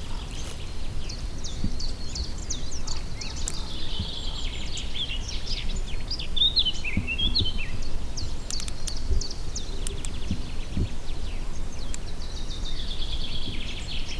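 Several small birds singing and chirping in quick, varied phrases over a steady low rumble, with a few sharp clicks about a third and two-thirds of the way through.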